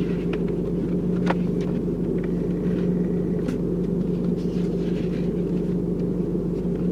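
Steady low rumble of a car engine running, with a constant hum and a few faint light clicks.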